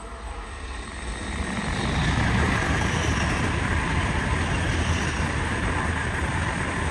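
Shinkansen train passing through at high speed: a rushing noise with a low rumble that builds over about two seconds, then holds steady and loud.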